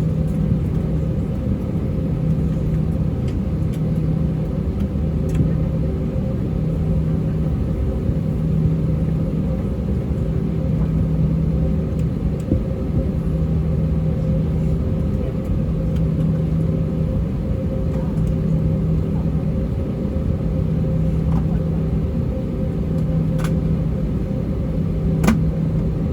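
Steady low drone with a constant hum inside an Airbus A320-232 cabin on the ground, its engines idling, with a couple of faint clicks near the end.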